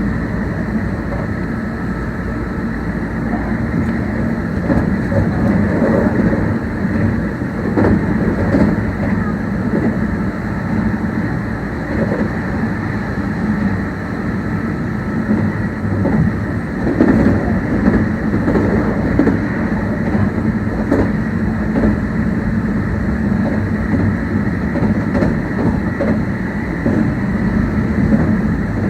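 Meitetsu 1800 series electric train running at speed, heard from on board: a steady rumble of wheels on rail and running gear, with a few short clacks from rail joints.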